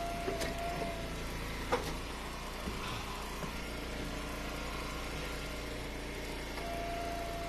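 Gas engine of a hydraulic firewood splitter running steadily, with a steady whine near the start and again near the end as the hydraulics take load, and a couple of sharp knocks of wood in the first two seconds.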